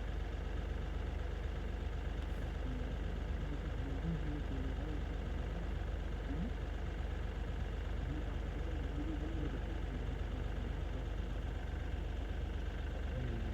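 A steady low rumble like an engine idling, with no change in level throughout.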